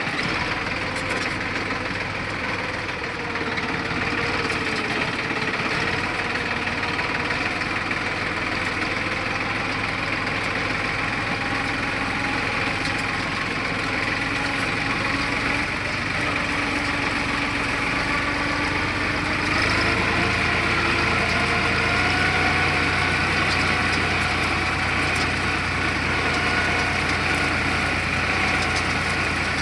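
Deutz-Fahr tractor's diesel engine running steadily, its low note growing louder about two-thirds of the way through.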